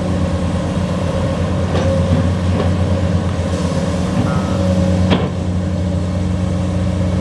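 Heavy diesel engine running steadily at constant speed, with one sharp knock about five seconds in.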